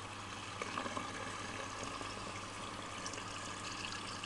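Miele washing machine filling with water at the start of a wash: a steady rush of incoming water.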